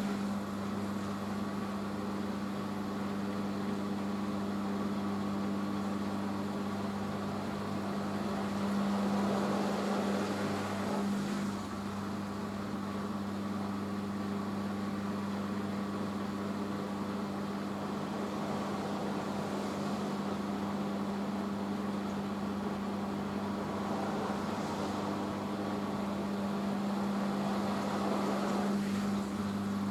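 Hoover H-Wash 500 front-loading washing machine in its rinse spin after the first rinse: a steady motor hum with the rushing of the spinning drum, swelling slightly about nine seconds in and again near the end.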